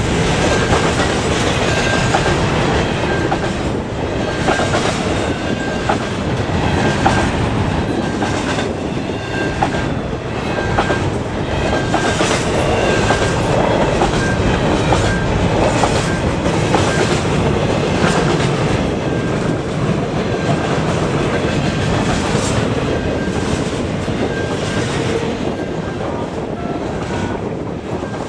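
Double-stack container cars of a freight train rolling past, steel wheels clacking over the rail joints in an irregular run of clicks over a steady rumble. A level-crossing bell rings with an evenly repeating tone throughout.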